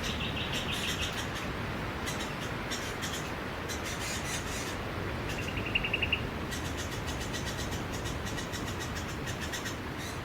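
Steady wash of sea waves breaking on a beach, with birds chirping over it. A short, rapid, high trill comes at the start and again about halfway through.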